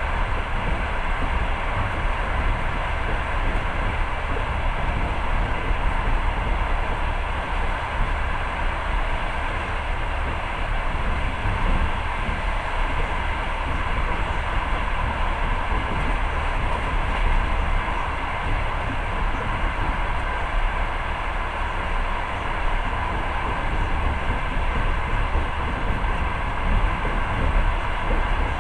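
Passenger train running, heard from inside the carriage: a steady rolling noise of wheels on rails, with no distinct rail-joint clicks.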